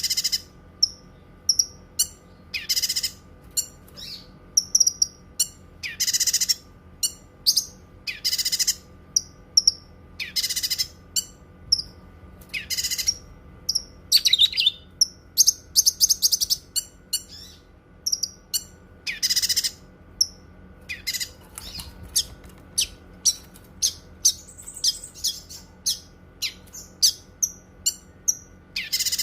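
Cucak kinoi songbird singing: a string of sharp, high chirps broken every couple of seconds by short, fast bursts of song.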